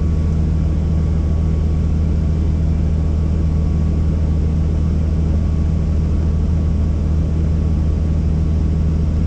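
Helicopter in flight: a steady, unbroken low drone of rotor and engine.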